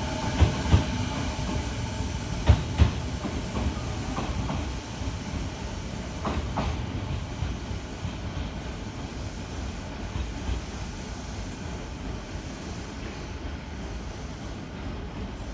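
Odakyu 4000 series electric train pulling out, its wheels clacking over rail joints in two quick pairs of knocks in the first three seconds, then a few lighter clacks. Its running sound fades as it draws away.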